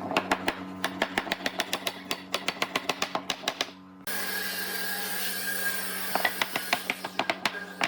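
Rapid series of sharp taps, about six a second, over a steady hum. About halfway through, the sound cuts to a steady hiss with a high whine, and more quick taps follow near the end.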